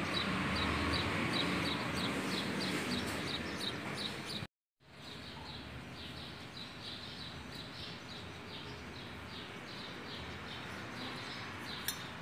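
A small bird chirping over and over, about three short chirps a second. A low steady hum lies under the first third and stops at a cut, and there is a single sharp click near the end.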